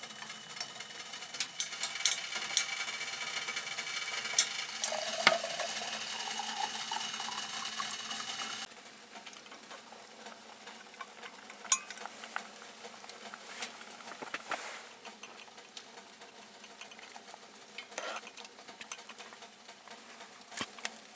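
Food sizzling in a pan while it is stirred, with utensil clicks against the pan. The sizzle cuts off abruptly about nine seconds in, leaving quieter scattered clinks.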